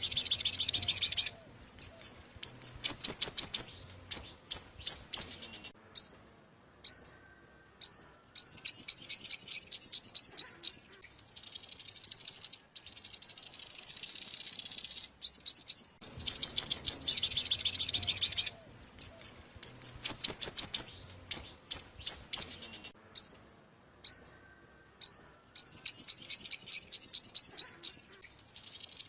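Sunbird song, the bird Vietnamese keepers call the five-colour sunbird: loud bursts of rapid, high trills made of quick downward-sweeping notes, broken by short pauses, with one longer, steadier buzzing trill about halfway through.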